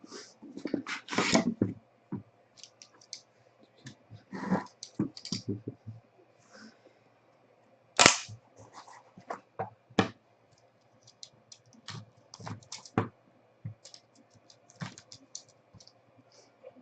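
Hands opening a sealed trading card box and handling the cards: irregular rustling, taps and clicks, with one sharp click about eight seconds in.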